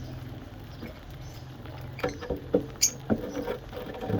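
Pet birds eating soft food: a run of short pecking taps and small squeaks starting about halfway through, with one brief high chirp, over a steady low hum.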